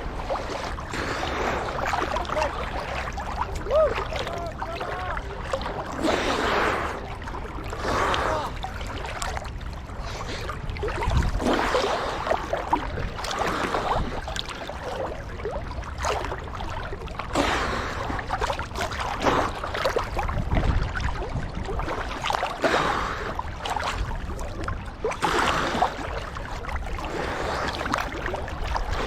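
Water splashing and sloshing from swimming strokes, in repeated surges every second or two.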